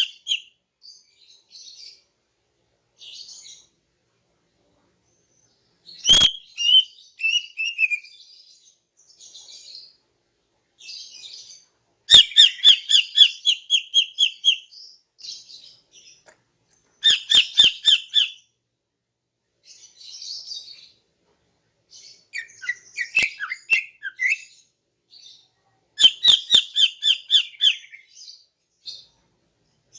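Female green leafbird (cucak ijo) calling: loud bursts of rapid, stuttering chirps about every five seconds, with softer scattered chirps in between and a sharp click at the start of some bursts.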